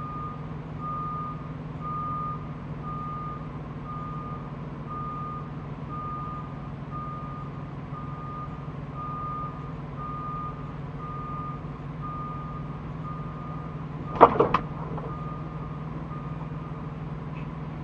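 A truck's reversing alarm beeps about once a second over the steady hum of its running engine. About fourteen seconds in comes a loud crash of three quick impacts, the backing truck striking something. The beeping stops soon after.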